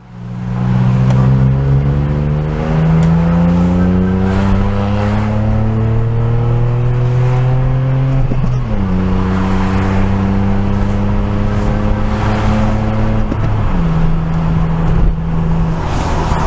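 Car engine accelerating, its pitch climbing for about eight seconds, then dropping suddenly at a gear change and running fairly steady before another step down in pitch a few seconds from the end.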